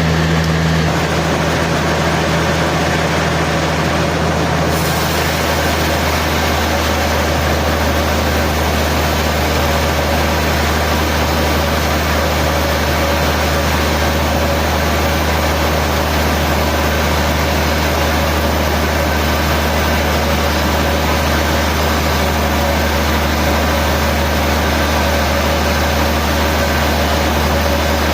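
Sawmill machinery running steadily: a loud, even, engine-like hum with no breaks, its tone shifting slightly about five seconds in.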